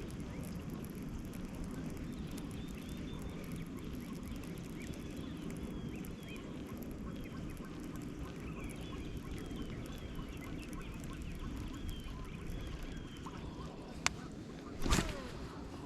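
Waterfowl calling over and over in short calls, over a steady low background noise. Near the end there is a sharp click, then a brief louder clatter.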